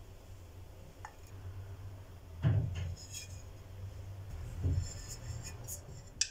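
A few light knocks and clinks of small hard objects being handled: a dull knock about two and a half seconds in, another near the middle, then a short run of high clinks and a sharp click near the end, over a low steady hum.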